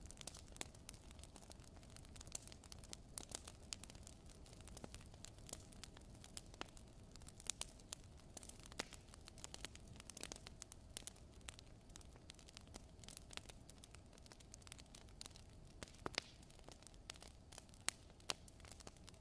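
Fire in a fireplace crackling faintly: irregular small pops and snaps, several a second at times, over a low steady hiss.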